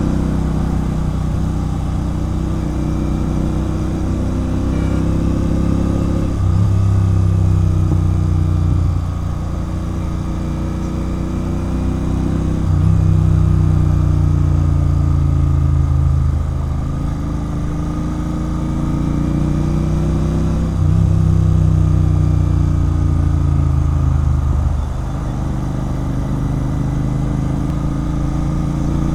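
Royal Enfield Continental GT 650's 648 cc parallel-twin engine running through a loud aftermarket RRP exhaust while riding. Three times it gets louder and pulls harder, about a quarter, half and two-thirds of the way through, each easing off a few seconds later.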